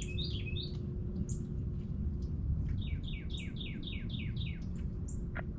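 A songbird singing rapid series of short, repeated down-slurred notes, one series at the start and another of about eight notes a little past halfway, over a steady low rumble.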